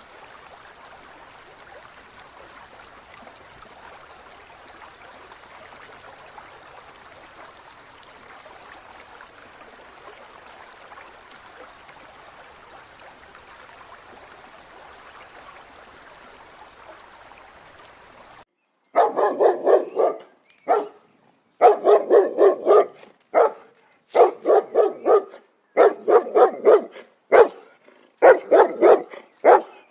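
Faint steady noise, then after about 19 seconds a dog barking in quick runs of rapid barks, a run roughly every one to two seconds.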